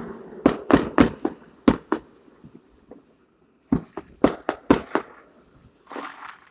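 Fireworks going off in quick runs of sharp bangs: about five in the first two seconds, a pause, then another rapid run, with a softer rush of noise near the end.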